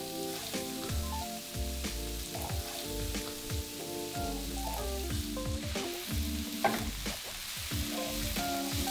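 Diced raw potatoes dropping into a hot wok of fried onion and curry powder, sizzling, with the knocks and scrapes of the spoon against the wok. Soft background music with changing notes runs underneath.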